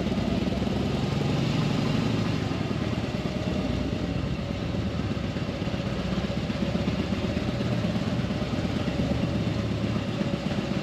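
Motorcycle engine running steadily, with a dense low pulse and a constant rush of noise over it.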